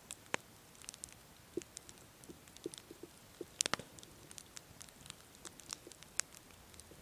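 Wood campfire crackling: irregular sharp snaps and pops of burning wood, with the loudest snaps a little past halfway.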